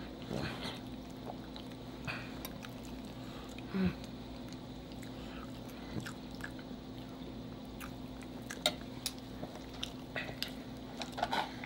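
Soft, wet chewing and mouth sounds of two people eating mashed potatoes, gravy and steak, with scattered light clicks of forks against the plate. A steady low hum runs underneath.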